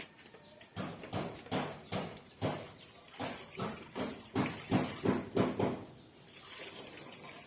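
A series of about a dozen short knocks, roughly two a second, growing louder past the middle and stopping about six seconds in, followed by a soft hiss.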